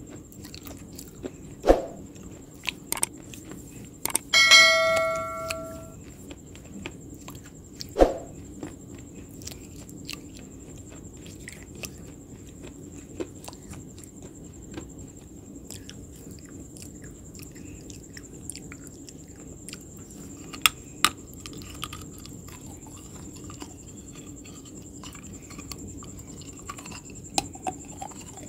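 Close-miked chewing and biting of crinkle-cut french fries: mostly soft mouth sounds and small clicks, with two loud crunchy bites about two and eight seconds in, over a steady faint hum. About four seconds in a bell-like ring sounds and fades over a second or so.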